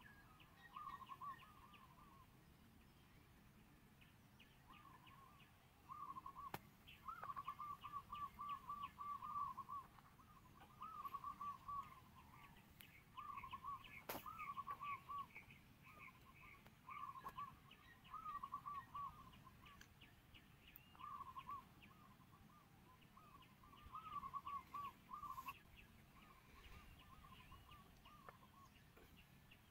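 A bird calling again and again in short, quick runs of notes, faint, the runs coming every second or two; two sharp clicks, about six and fourteen seconds in.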